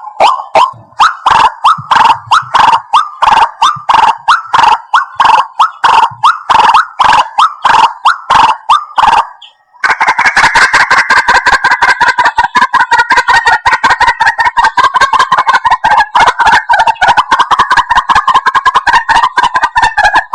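White-breasted waterhen calling loudly. Repeated notes come at about three a second, then stop briefly a little before halfway. After the gap a much faster, unbroken run of notes takes over.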